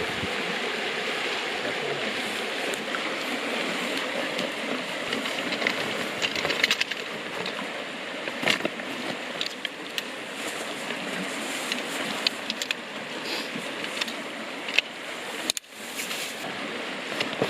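River water rushing steadily, with scattered light clicks and taps over it; the sound drops out for a moment near the end, then carries on.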